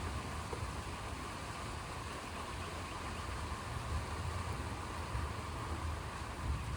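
Steady outdoor storm ambience: a low, fluctuating rumble under an even hiss, with no distinct thunderclap.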